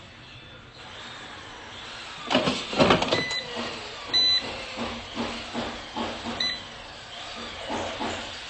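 An air fryer being handled: a cluster of sharp knocks and clatter, then softer knocks about twice a second, over a steady hiss, with short electronic beeps from the control panel about every two seconds.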